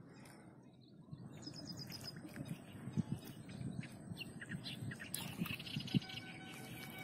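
Small birds chirping and tweeting in short bursts, busiest near the end, over a low rumbling background with a few soft knocks, the loudest about three and six seconds in.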